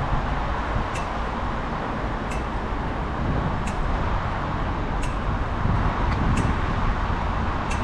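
Wind rumble and tyre noise from a mountain bike ride along a road with traffic, with a sharp click repeating evenly about every second and a half.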